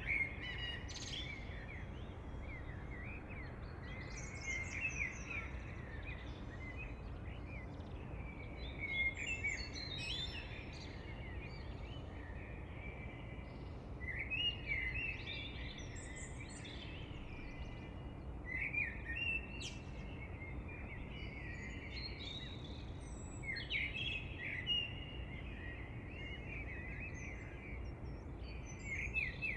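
Songbirds chirping and twittering in short bursts every few seconds, over steady low background noise.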